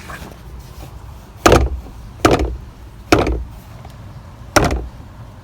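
Four sharp knocks on the CR-V's plastic glove box panel as it is pressed and snapped into place, each ringing out briefly.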